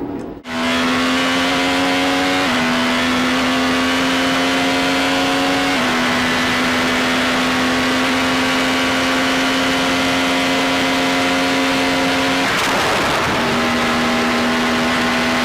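Racing car engine held at high revs at a nearly constant note, with small shifts in pitch. It cuts out for about a second near the end, then comes back on the same note.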